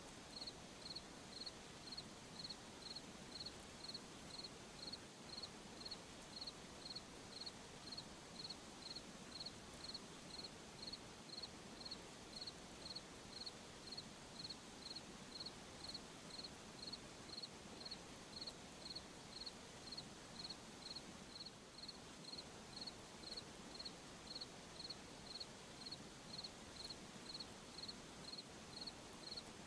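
A cricket chirping faintly and steadily, about two short high chirps a second, over a soft hiss of other night insects.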